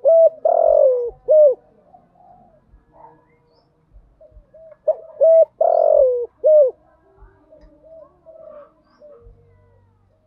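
Spotted dove cooing: two loud phrases of several low notes, one at the start and one about five seconds in, with fainter cooing between and after. It is a lure call meant to draw in other doves.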